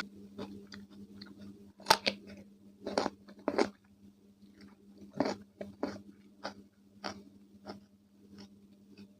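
Close-up crunching and chewing of raw cucumber with mayonnaise: a string of sharp, wet crunches at uneven spacing, loudest about two, three and three and a half seconds in, with a steady low hum underneath.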